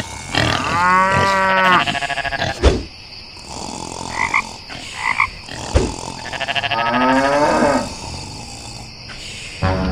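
Two long, drawn-out animal calls, each gliding in pitch, about six seconds apart, with a sharp knock after the first and before the second and two short high chirps between them.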